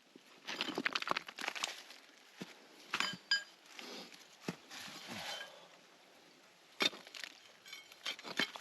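Digging in stony ground: a hand tool scrapes and knocks against stones. There are scattered clinks, a couple of short metallic rings about three seconds in, and a sharper knock a little before the end.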